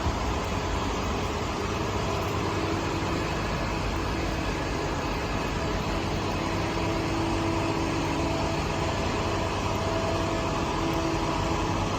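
A vehicle engine idling steadily, with a faint hum that comes and goes over a constant background rumble.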